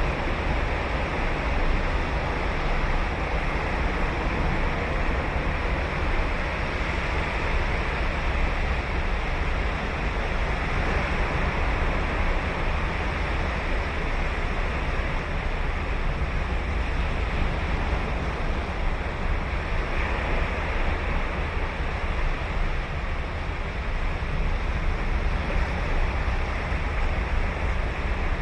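Ocean waves breaking and washing on a sandy beach: a continuous surf noise with a deep rumble, and some wind on the microphone.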